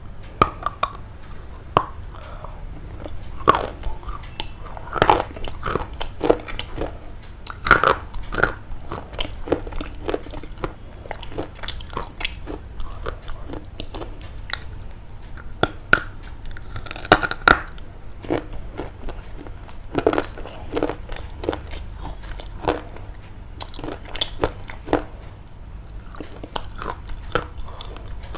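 Someone biting and chewing crunchy food: sharp, irregular crunches at an uneven pace.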